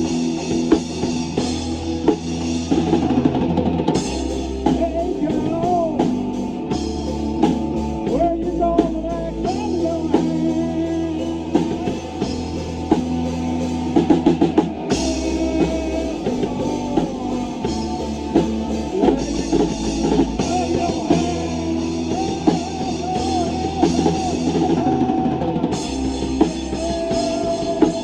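Live rock band playing an instrumental passage: full drum kit with bass drum, bass guitar and electric guitar, with a lead line that bends and wavers in pitch.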